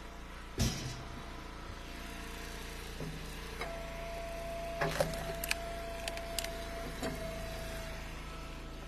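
Engine of a hydraulic wood splitter running steadily, with a level whine holding for about four seconds in the middle as it works. Split firewood knocks sharply about half a second in and again about five seconds in.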